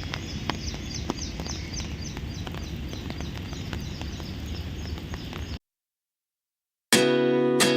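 Outdoor background with a bird repeating a short high chirp about three times a second over a low rumble, with a few sharp clicks. About five and a half seconds in it cuts to silence, and strummed acoustic guitar music starts near the end.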